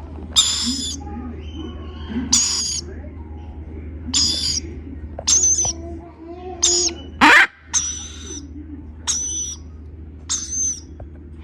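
Baby lorikeets giving repeated harsh, screechy calls, about one a second, with one louder call rising in pitch partway through. A steady low hum runs underneath.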